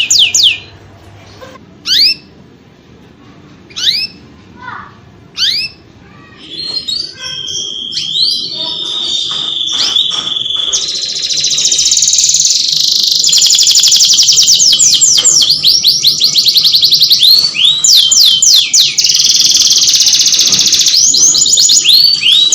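Domestic canary singing: a few short falling chirps a second or two apart, then from about seven seconds in the song builds into long, fast, continuous trills and falling whistles.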